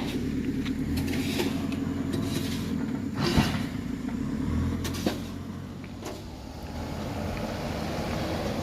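Dump truck engine running steadily, with a few knocks and rattles, the loudest about three seconds in.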